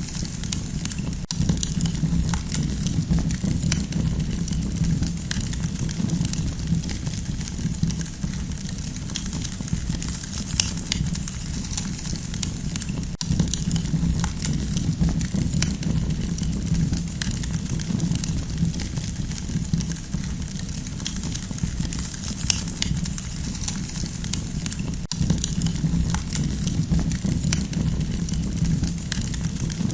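Campfire crackling: dense small pops and snaps over a steady low rumble of the burning fire.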